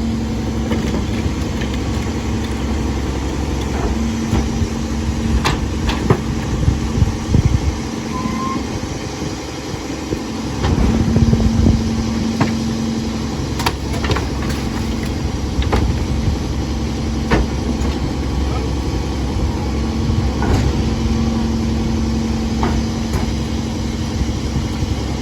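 Mack LE garbage truck with a McNeilus body, its diesel engine running steadily. A whine comes and goes several times over it, and scattered sharp clanks and knocks are heard throughout.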